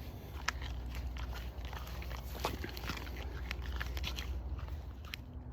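Footsteps crunching through dry leaves and twigs on a steep bank: an irregular scatter of cracks and crackles over a low rumble.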